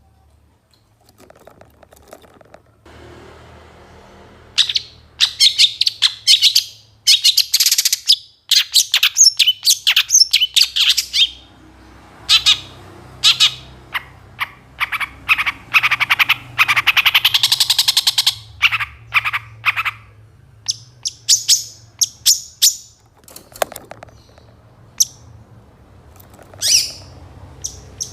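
Long-tailed shrike singing a varied, loaded song of rapid high chirps, trills and harsher scratchy notes in bursts with short pauses. The song is packed with mimicked phrases of other birds. The first few seconds are nearly quiet before the song starts about four and a half seconds in.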